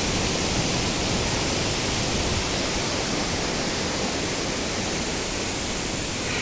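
Waterfall: a steady, even rush of falling water, with no change through the whole stretch.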